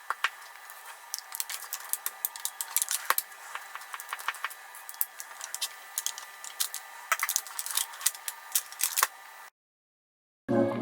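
Irregular sharp crackles and clicks, several a second, from handling and eating a chocolate tart; they cut off suddenly about nine and a half seconds in.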